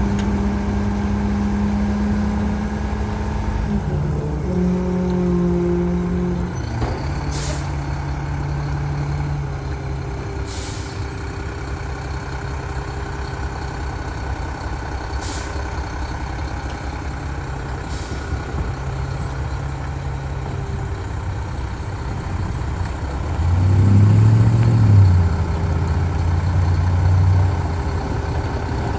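Mack Granite rear-loader garbage truck running, its diesel engine humming with the pitch stepping up and down. Four short air brake hisses, and the engine louder for a few seconds near the end.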